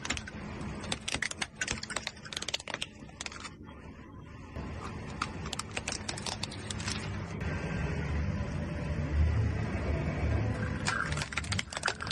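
Plastic toys cracking and crunching under a car tyre: rapid snapping clicks in bursts over the first few seconds, again around the middle, and near the end. A low rumble from the rolling car fills the gap in between.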